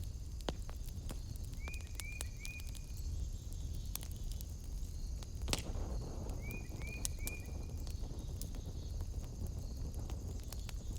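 Wood fire crackling in a fireplace: irregular small pops over a low steady rumble, with one sharp pop about five and a half seconds in. Twice, a quick run of three short chirps sounds behind it, over a steady high-pitched drone.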